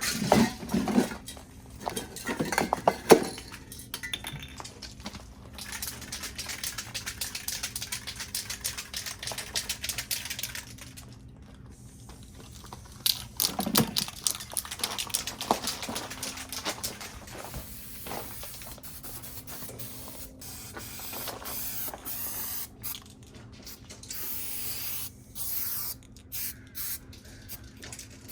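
Aerosol spray paint cans hissing in long bursts of several seconds each, with short breaks between them, the later bursts broken into quick taps. A few short rattles come in the first three seconds.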